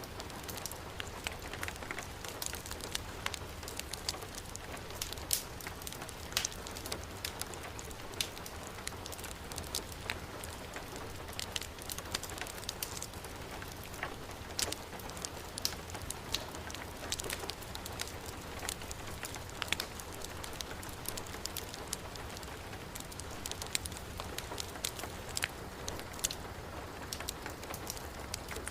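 Steady heavy rain hiss, with frequent sharp crackles and pops from a wood fire burning in a fireplace scattered over it.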